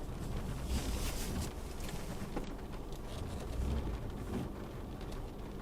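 Isuzu D-Max V-Cross pickup's engine running steadily at low revs, with rain pattering on the vehicle.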